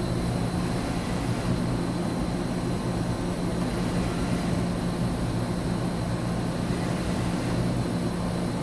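Mazak HCN 4000-III horizontal machining center traversing its X axis back and forth at 50% rapid: a steady hum of the axis drive and ball screw with the way covers sliding. Everything sounds healthy.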